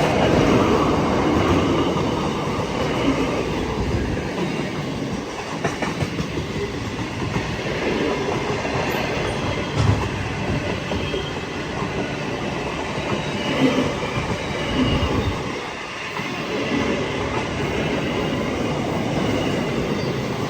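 Freight train wagons rolling past on the track: a steady rumble and clatter of wheels, with a few louder knocks spread through it.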